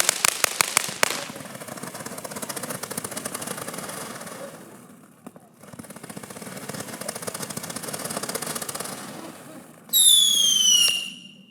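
Consumer firework cake shots: rapid sharp pops for about the first second, then a dense crackle of strobe stars that fades away, and another run of crackling. Near the end a loud firework whistle falls in pitch for about a second.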